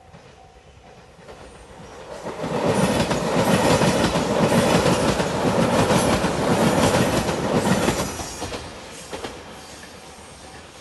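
Anpanman-liveried JR limited express train passing close by, its wheels clattering over the rail joints: it builds from about two seconds in, is loud for some five seconds, then fades as it draws away. A level crossing bell rings faintly at the start and again near the end.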